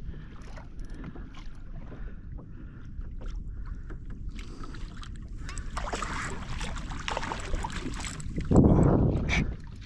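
Water splashing and sloshing around a kayak, with a louder, heavier splash near the end.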